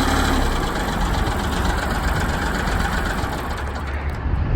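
Engine of a Vermeer Flex Track 75 tracked backhoe/trencher idling steadily, its higher sounds thinning out near the end.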